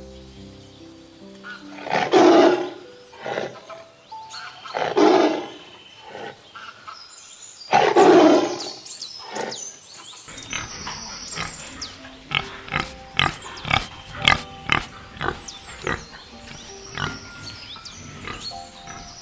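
Three loud, rough calls from a large animal, about three seconds apart, over background music. The second half is the music alone, with sharp rhythmic clicks.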